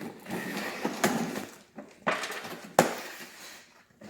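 A cardboard box being opened by hand: rustling and scraping of packaging, with a sharp knock nearly three seconds in.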